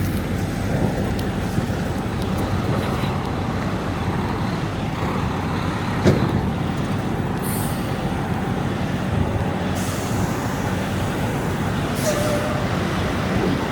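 Semi truck's diesel engine running steadily at low speed, with a single click about six seconds in and a brief air hiss soon after.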